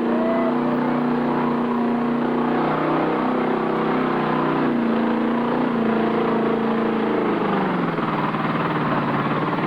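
Mud truck's engine running hard under load, its pitch holding steady, then falling away about eight seconds in as it eases off.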